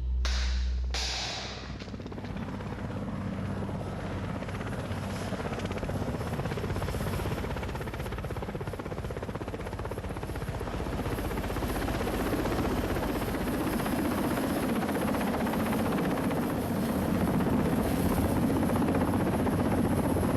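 Military helicopter rotor and engine running steadily, growing gradually louder. Two brief sharp sounds come in the first second.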